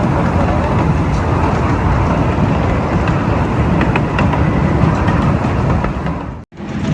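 Steady running noise of a ride on a 12-inch gauge live steam railroad train, a continuous rumble with hiss, cutting out abruptly for an instant near the end.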